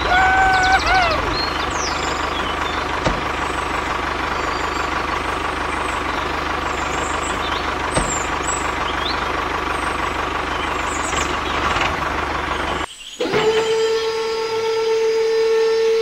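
Mini tractor motor running steadily, with a faint constant whine. About three seconds before the end the running noise cuts off abruptly and a single held steady tone with overtones takes over.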